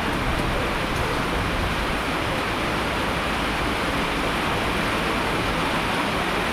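Heavy rain falling steadily, a dense even rush with no single drops or sudden sounds standing out.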